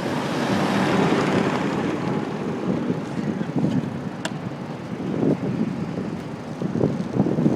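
Wind buffeting the microphone of a handlebar-mounted iPhone 4 on a moving bicycle, with road rattle and city traffic noise. There is a single sharp click about four seconds in.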